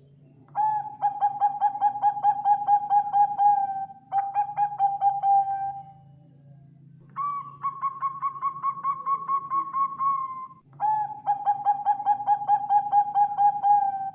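Zebra dove cooing: four long phrases of rapid, evenly pulsed coos, about five or six a second, the third phrase pitched a little higher. A faint steady low hum lies underneath.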